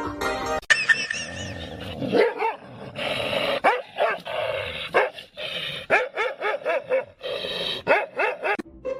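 A dog barking and yipping over and over in short calls that rise and fall in pitch, several close together at times, stopping just before the end.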